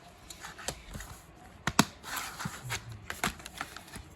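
A plastic DVD case being handled: a handful of sharp plastic clicks and a short rustle.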